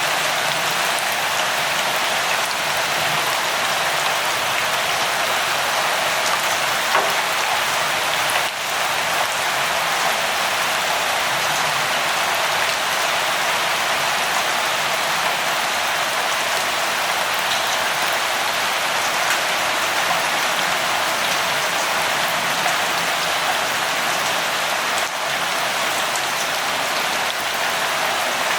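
Steady rainfall, an even hiss of drops with scattered louder ones, no thunder.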